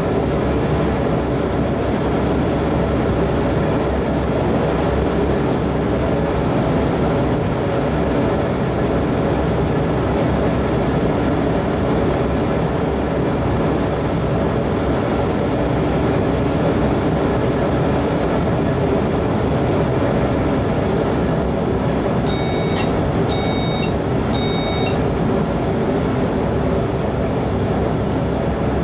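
Electric multiple-unit train heard from the driver's cab, running with a steady rumble of wheels on rails and motor hum. Near the end, three short high electronic beeps sound about a second apart.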